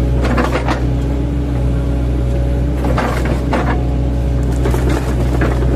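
An 8-ton mini excavator's diesel engine runs steadily. Bursts of cracking and knocking come near the start and again about three seconds in, as the bucket's welded-on chipping blades chop oil palm trunks.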